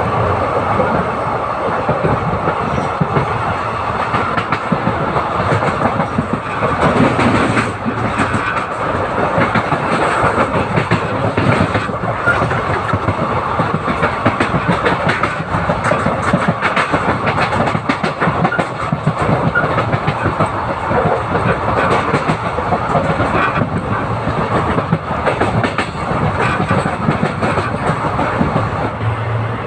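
Express train coach running at speed, heard from on board: a steady rumble of wheels on the track with many quick clicks from the rails.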